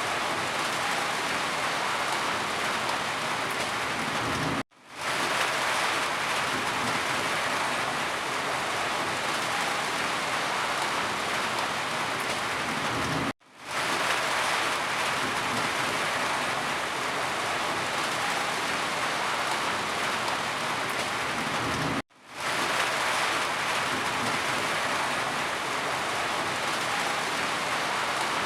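Steady heavy rain, an even dense hiss of falling drops. Three times, about nine seconds apart, it cuts out to silence for an instant and fades quickly back in.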